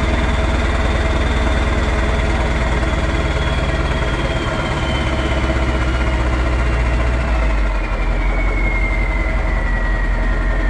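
Straight-piped Mack E9 V8 diesel of a Renault Magnum 560 truck running steadily. Its low note drops in two steps about halfway and three-quarters of the way through, while a high whine slowly falls in pitch.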